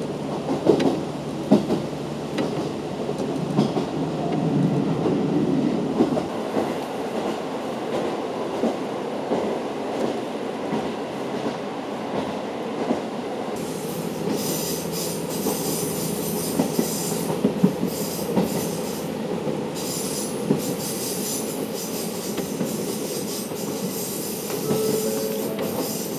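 JR Hokkaido KiHa 40 diesel railcar running along the line, its wheels clattering over the rails. About halfway through, a high wheel squeal sets in and carries on, typical of the wheel flanges grinding through a curve.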